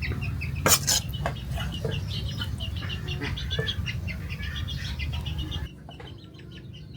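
Chickens clucking and peeping, with a couple of sharp knocks about a second in, over a steady low rumble that cuts off abruptly near the end.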